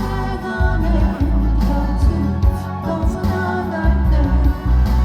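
A voice singing a song over instrumental accompaniment with a strong bass.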